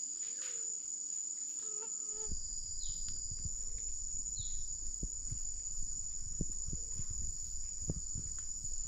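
Steady high-pitched chorus of forest insects, with irregular low thumps and rumbling coming in about two seconds in.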